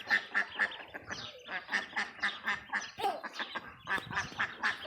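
A flock of ducks and ducklings calling: a rapid, even run of short quacking calls, about four or five a second.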